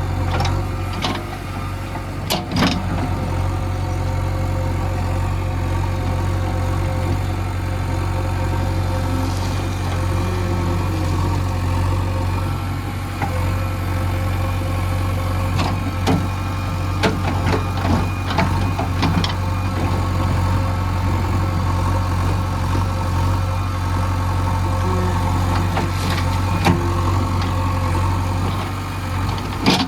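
Diesel engine of heavy earthmoving machinery running steadily, with scattered sharp knocks: one near the start, a cluster about halfway through and another near the end.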